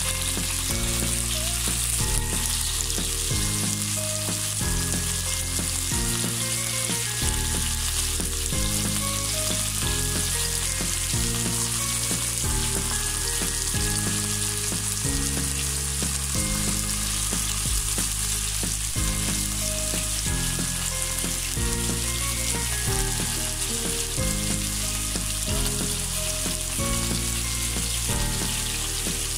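Chicken and vegetable shashlik skewers frying in shallow oil in a nonstick wok, with a steady sizzle, over background music of slow held notes.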